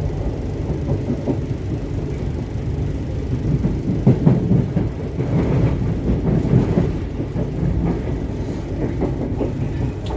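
Argo Sindoro express train running on the rails: a steady low rumble of the coach with irregular clatter and knocks from the wheels over the track, heaviest in the middle.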